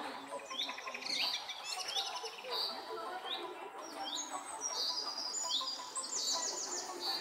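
Several birds chirping and singing, one of them repeating a short whistled call about once a second, with a rapid high trill near the end.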